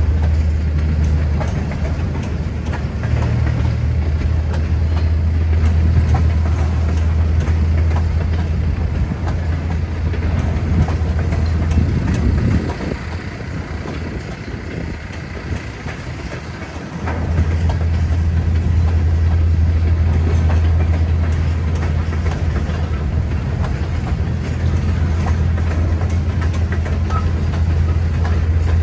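Freight train's flatcars and hopper cars rolling past on the rails, a steady low rumble that drops for a few seconds about halfway through and then comes back.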